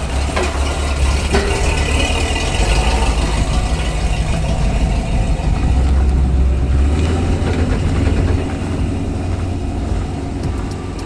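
Pickup truck engine running with a deep, steady rumble, growing louder and then easing off about eight seconds in.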